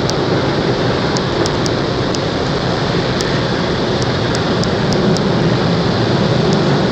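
Automatic car wash heard from inside a car riding through it: a loud, steady rushing of the wash equipment against the car, with a few faint ticks.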